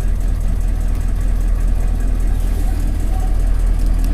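1994 Chevy K2500's 6.5-litre turbo-diesel V8 idling steadily, heard from inside the cab.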